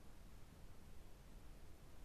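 Near silence: a faint, steady hiss with a low rumble.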